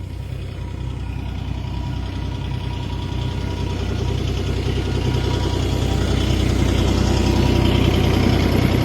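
Kubota mini skid steer's diesel engine running steadily, growing gradually louder as it works.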